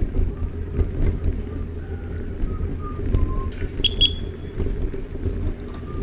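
Wind buffeting the microphone over outdoor street ambience, a steady low rumble, with a brief high chirp about four seconds in.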